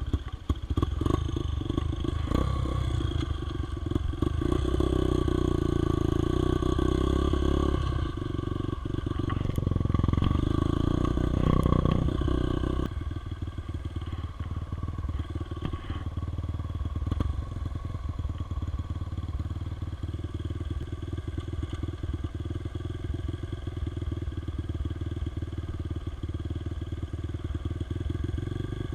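Dirt bike engine running under load, louder in two stretches during the first dozen seconds, then settling to a quieter, steady run.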